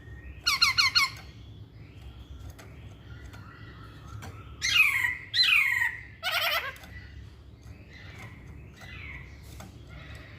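Masked laughingthrush calling: a quick run of four notes about half a second in, then two loud downward-sliding squawks and a harsh buzzy note about halfway through, with softer calls in between.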